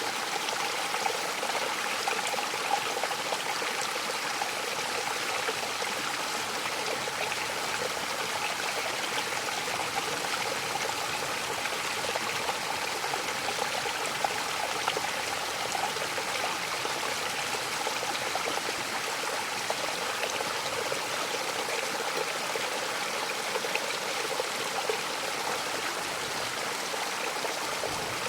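Mountain waterfall: steady rushing and splashing of falling water.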